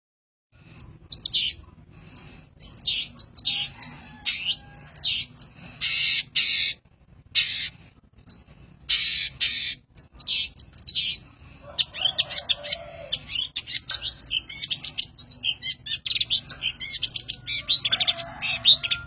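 A mimic songbird singing a long, varied song of quick whistled sweeps and chirps in changing phrases with short pauses between them, turning into faster chattering notes after about twelve seconds.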